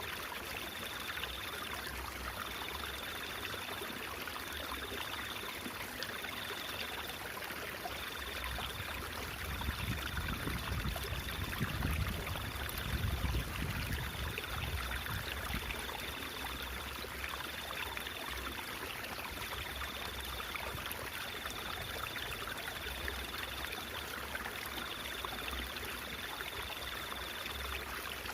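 Stream water babbling and trickling steadily. A low rumble swells in the middle, and a thin high tone comes and goes in short spells throughout.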